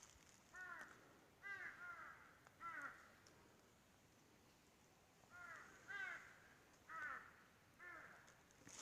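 A crow cawing faintly: two runs of about four short, harsh caws, the second run starting about five seconds in.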